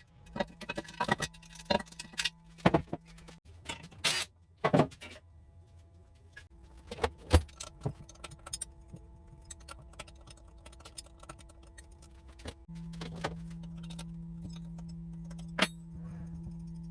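Metal tools and parts clinking and knocking irregularly, as in hands-on engine disassembly work. A steady low hum runs for the first few seconds, stops, and comes back about two-thirds of the way through.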